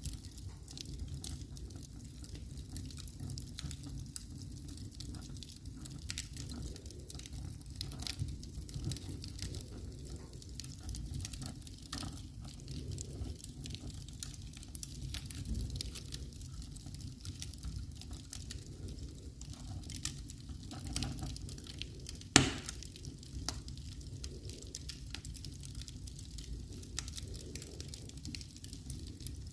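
Wood fire crackling in a fireplace: scattered small pops and snaps over a steady low rumble, with one sharp, much louder pop about three quarters of the way through.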